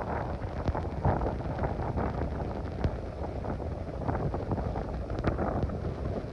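Storm-band wind from a hurricane buffets the microphone in heavy rain, making a dense, pulsing rumble with scattered sharp ticks.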